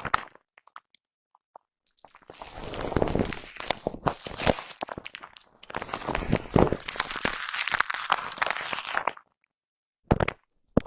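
A brush scraping over a foam microphone cover right on the mic: dense scratchy, crackling noise full of small clicks. It starts about two seconds in, stops about a second and a half before the end, and comes back as one short burst near the end.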